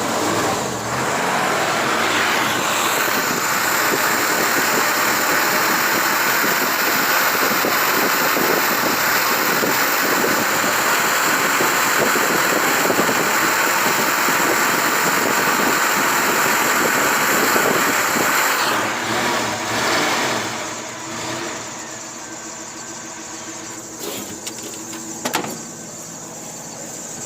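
Car engine running after a start on spray, loud and steady, then settling to a quieter run about twenty seconds in.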